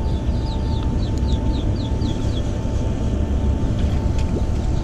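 A bird calling a quick run of about ten short, falling chirps, some four a second, over the first two seconds or so, above a steady low rumble.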